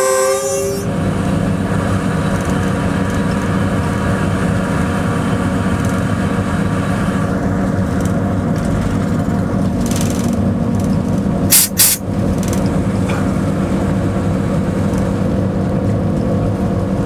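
Locomotive running along the line, heard from inside the driver's cab as a steady engine and running drone. The end of a horn blast fades out just after the start, and two short sharp noises come close together about two-thirds of the way through.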